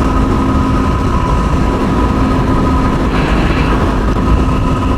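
Yamaha WR250R's single-cylinder four-stroke engine cruising at a steady pitch, under heavy wind rumble on the helmet microphone.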